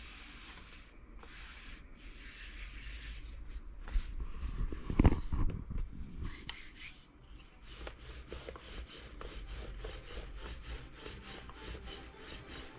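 Wooden rolling pin rolling out roti dough on a wooden board, rubbing and scraping steadily, with a couple of sharp knocks about four to five seconds in.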